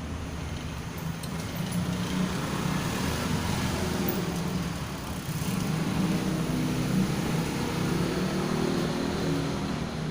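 A motor vehicle's engine running, its hum wavering and swelling louder through the middle before easing off near the end.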